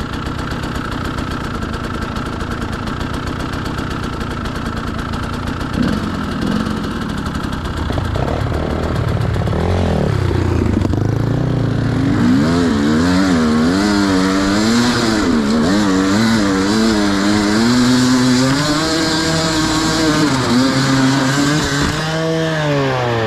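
Enduro dirt bike engine running steadily at low revs, then revved up and down repeatedly with the throttle from about a third of the way in, its pitch rising and falling many times before dropping back near the end.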